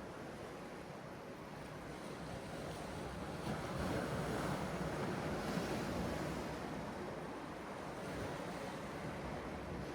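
Sea surf: waves breaking and washing in as a steady rush. It swells louder about four seconds in and eases off again.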